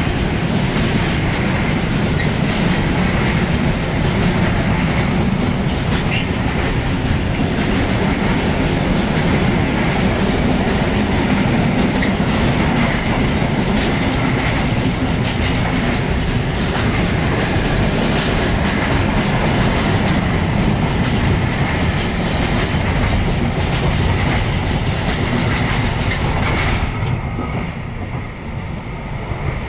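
Freight train of covered hopper wagons rolling past close by, with steady wheel rumble and clatter over the rail joints. The noise eases near the end as the last wagons go by.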